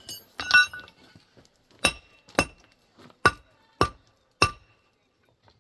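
Sharp ringing clinks of a hard object striking something that rings. A quick jangle comes first, then five single strikes about half a second apart with a short pause after the second, each ringing at the same pitch.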